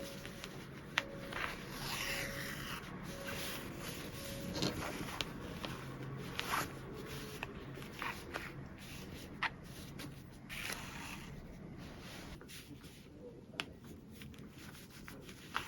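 Fabric being handled and rustling, with scattered light clicks and taps at irregular moments.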